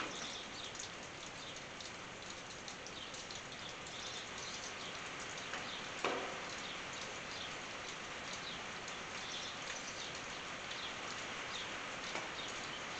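Rain falling on a tin roof: a steady patter of drops with individual ticks, and one louder tap about halfway through.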